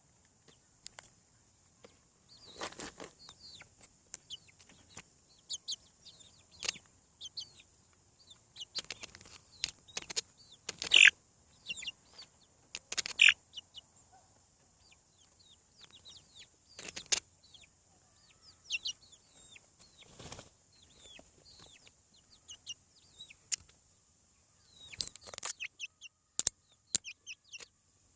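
Young chickens, about seven weeks old, peeping: many short high cheeps that slide down in pitch, two of them louder and longer about a third and halfway through. Scattered sharp taps and rustles mix in, over a steady faint high hiss.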